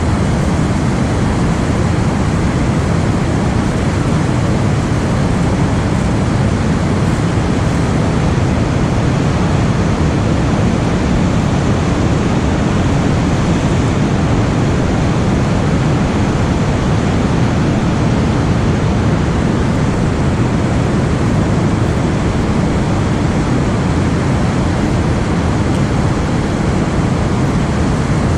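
Steady rushing water from an overflowing dam spillway, an even, unbroken roar heaviest in the low range.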